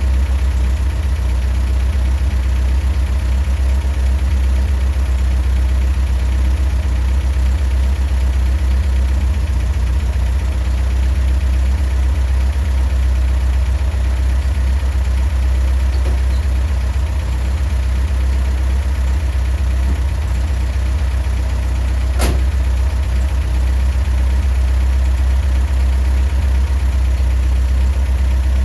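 Datsun Bluebird 411's J-series four-cylinder engine idling steadily, fed by a replica Weber carburettor on an MGB intake manifold. A single sharp click about three-quarters of the way through.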